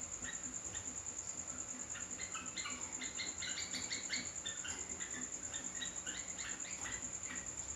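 Yellow-vented bulbul (trucuk) chirping: quick runs of short, high calls, busiest about halfway through. Under them runs a steady, high, finely pulsing insect trill.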